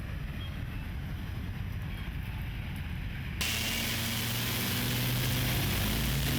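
Low rumbling vehicle noise, switching abruptly a little over three seconds in to a louder, steady hiss with a low droning hum.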